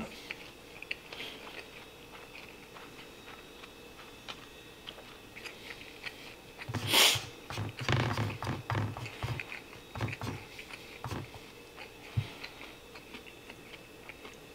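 A man chewing and eating karaage (Japanese fried chicken) and rice: quiet chewing with many small mouth clicks, and a louder stretch of chewing beginning with a sudden sound about seven seconds in.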